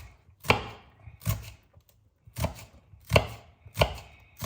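Kitchen knife chopping on a cutting board: six separate, unhurried strokes, each a sharp knock.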